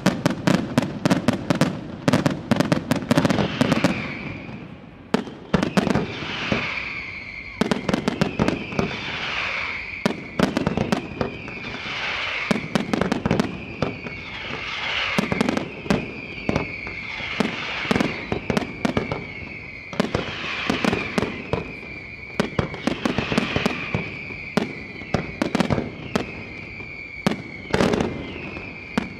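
Professional fireworks display: aerial shells going off in quick volleys of sharp bangs and crackles. From about four seconds in, a whistle slides down in pitch and repeats every second or two.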